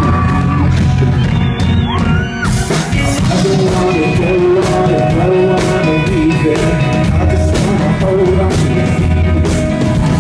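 Rock band playing live at full volume, with drums, bass and guitar and a wavering lead line above them; a short sliding tone rises about two seconds in.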